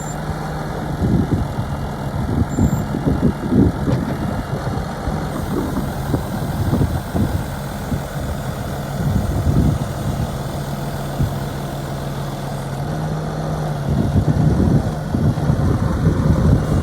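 Diesel engine of a New Holland TV145 bi-directional tractor idling steadily, its pitch stepping up slightly about three-quarters of the way through. Irregular bursts of low rumble sound over it.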